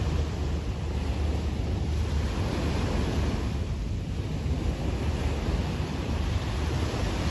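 Sea waves washing onto a beach, a steady surf hiss that swells about three seconds in, with wind buffeting the microphone as a low rumble underneath.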